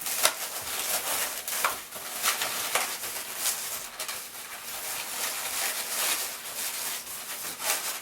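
Inflated 260 latex modelling balloons rubbing against each other as they are twisted together, with repeated rubbing and a few short squeaks.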